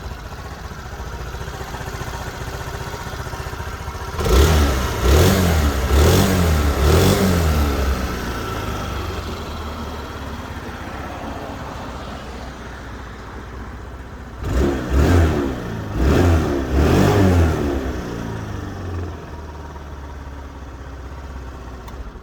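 Honda Spacy 100 (JF13) scooter's single-cylinder four-stroke engine through its stock exhaust, idling and then free-revved in two sets of about four quick throttle blips, settling back to idle after each set.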